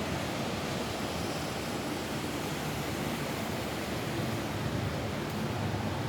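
Rain falling steadily on a roof: an even, unbroken hiss with a low rumble underneath.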